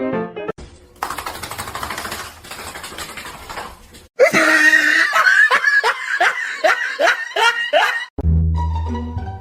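A hissing rustle, then a run of loud laughs in rising bursts, about two a second, for some four seconds. Background music stops about half a second in and returns near the end.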